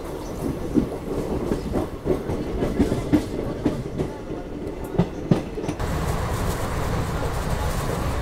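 Indian Railways passenger train running, its coach wheels clattering over the track with irregular sharp knocks. From about six seconds in it settles into a steadier rumble and rushing hiss.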